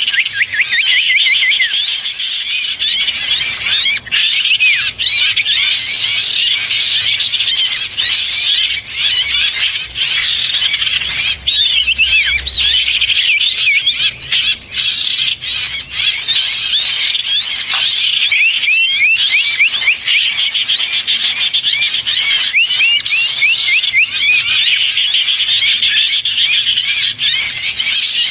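A dense, steady chorus of many small songbirds chirping and calling over one another. It is a bird-lure recording of an excited small-bird flock.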